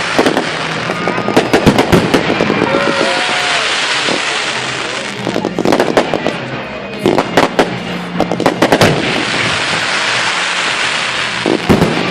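Fireworks going off: clusters of sharp bangs and crackling over a continuous fizzing hiss. The bangs come thickest about a second in, around six seconds, from seven to nine seconds, and again near the end.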